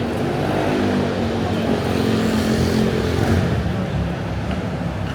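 A motor engine passing, its pitched hum growing louder to a peak about three seconds in and then easing, over a steady hiss of city background.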